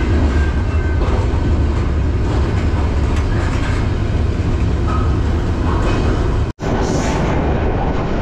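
Moving BNSF freight train heard from aboard: a steady, loud, deep rumble with rattling over the rails. The sound drops out for an instant about six and a half seconds in, then carries on.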